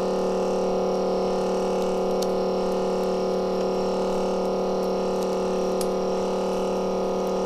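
Steady electrical hum made of several fixed tones, with two faint ticks.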